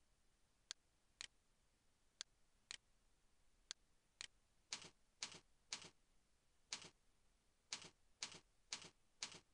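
A series of faint sharp clicks, landing on a steady beat of about two a second with some beats skipped; the later clicks are fuller than the first few.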